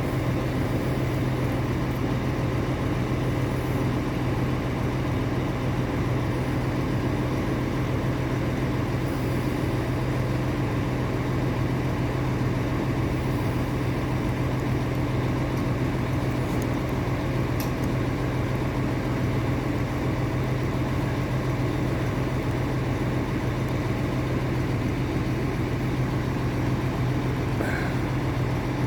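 A large engine running steadily at a constant low hum, most likely the boatyard crane's engine holding while it works the lift.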